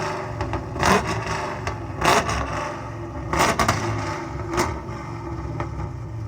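Car engine running with a steady low idle, with about four short, sharp bursts spread over the first five seconds.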